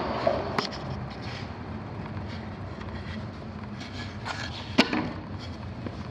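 A few sharp knocks and clicks over a steady low hum; the loudest knock comes near the end.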